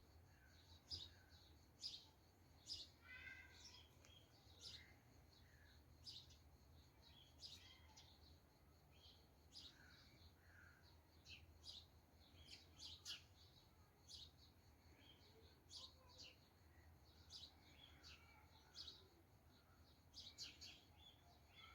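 Faint bird chirping: short, high chirps repeating roughly once a second, over a faint steady low hum.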